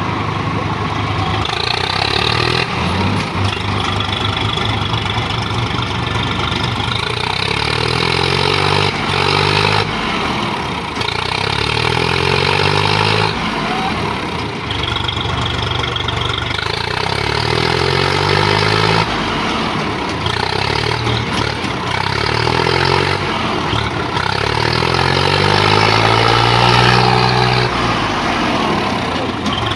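Tractor diesel engines revving hard under load, the pitch surging up and falling back again and again, as in a tractor tug-of-war pull.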